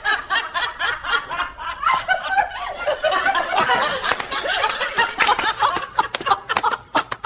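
People laughing, snickering and chuckling, the laughter turning into short, choppy bursts about five seconds in.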